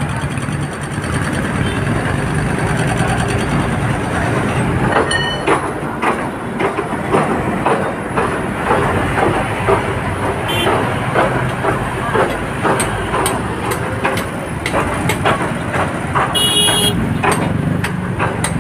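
Road traffic rumbling steadily, with many short sharp knocks from about five seconds in and a brief high-pitched horn toot near the end.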